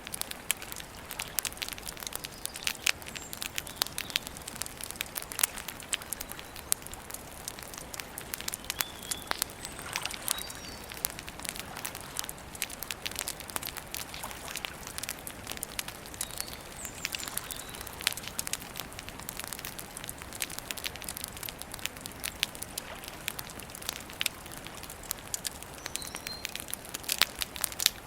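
Campfire crackling, with dense irregular pops and snaps over a soft hiss. A few faint high bird chirps come through now and then.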